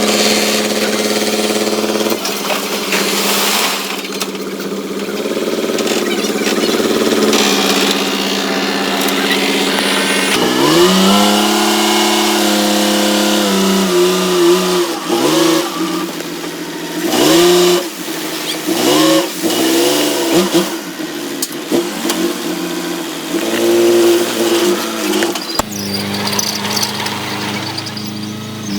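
Diesel engines of heavy earth-moving machinery running, revving up and down repeatedly through the middle, with the engine sound changing abruptly a few times.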